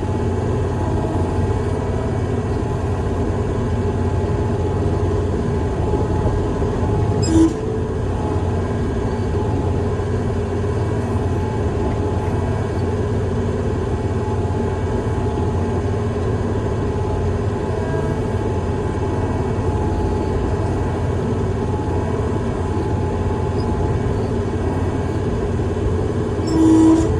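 A heavy vehicle's diesel engine running steadily, with a single sharp click about seven seconds in and a short horn-like tone at the very end.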